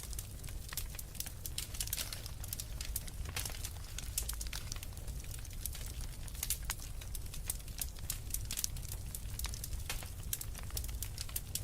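Wood fire in a fireplace, logs burning with dense, irregular crackling and popping over a steady low rumble.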